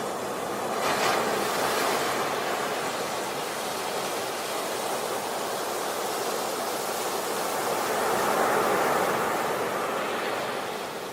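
Sea waves breaking on a beach: a steady rush of surf that swells louder about a second in and again around eight seconds in, then eases off near the end.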